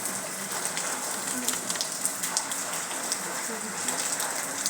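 Rain falling steadily, with many sharp individual drops striking a surface close by.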